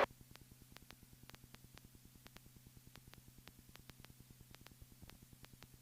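Near silence on a cockpit intercom audio feed with the voice gate closed: a faint steady electrical hum with faint, rapid, regular ticks.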